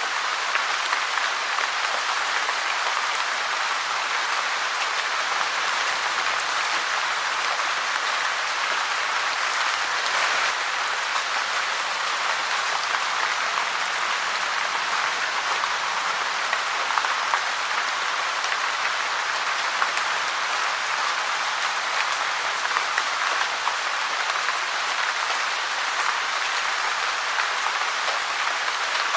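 Steady rain falling, a dense, even patter of drops with a constant hiss that stays the same throughout.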